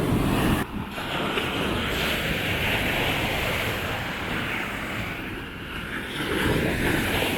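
Surf washing up on a sandy beach, with wind buffeting the microphone in low gusts near the start and again near the end.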